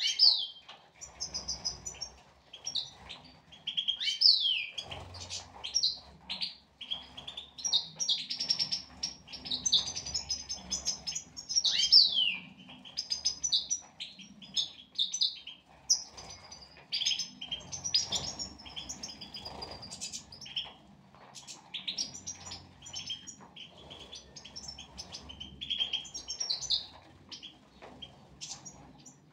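A group of European goldfinches chirping and twittering continuously, with quick trills and short sliding notes overlapping one another.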